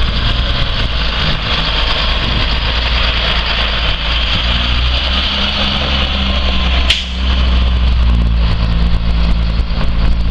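Caterpillar C7 inline-six diesel in a school bus idling steadily, with a single sharp click about seven seconds in.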